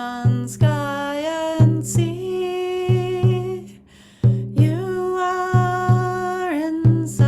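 A woman sings a slow devotional chant in long held notes, over a drum beaten in a heartbeat rhythm: pairs of low beats about a third of a second apart, repeating roughly every 1.3 seconds.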